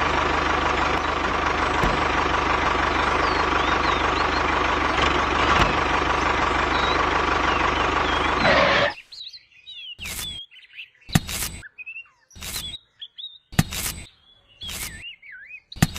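A small engine runs steadily, then cuts off abruptly about nine seconds in. Birds chirp in the quiet that follows, along with short sharp knocks roughly once a second.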